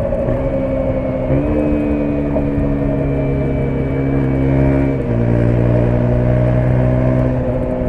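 KTM 125 Duke single-cylinder engine running at a fairly steady speed under way. Its pitch steps up about a second in and drops back about five seconds in.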